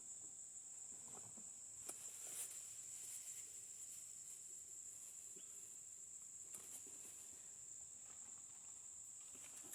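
Insects trilling: a continuous high-pitched steady drone. A few faint clicks and rustles are heard about two seconds in and again later.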